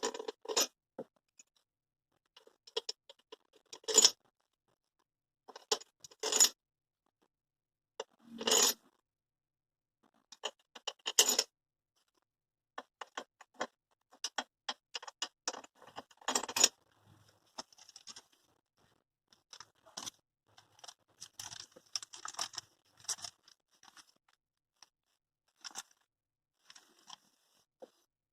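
Metal engine parts and hand tools being handled during engine reassembly: scattered clinks, knocks and scrapes at irregular intervals, a few of them sharp and loud, with short quiet gaps between.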